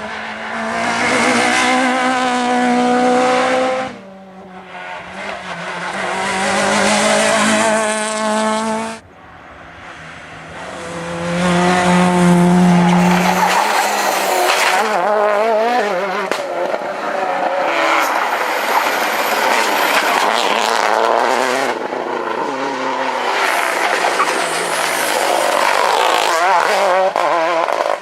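Rally car engines at full throttle, rising in pitch as the cars accelerate hard, with tyre noise. The sound breaks off sharply about four and nine seconds in as one short clip cuts to the next.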